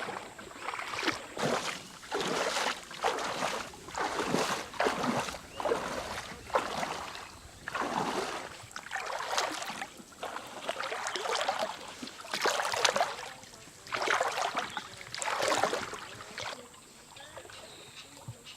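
Water swishing and splashing in a steady rhythm, about one stroke a second, stopping near the end.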